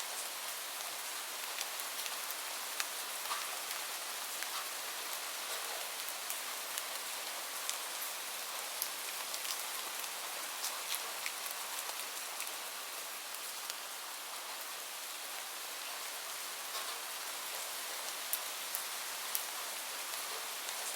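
Steady rain falling, an even hiss with many scattered sharp ticks of single drops striking a surface.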